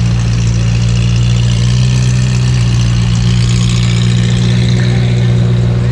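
A car engine idling steadily with a deep, even exhaust rumble.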